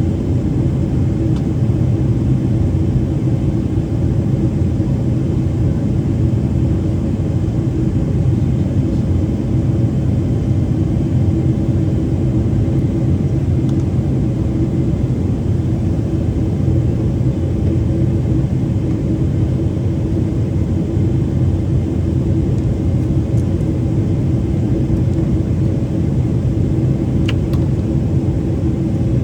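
Cabin noise inside a Boeing 777-300ER in descent: a steady low rumble of airflow and its GE90 engines, with a faint steady hum above it.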